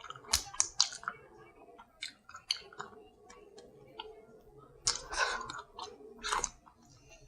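A person chewing and smacking on saucy seafood: irregular wet mouth clicks and smacks, with a few louder ones a little past halfway.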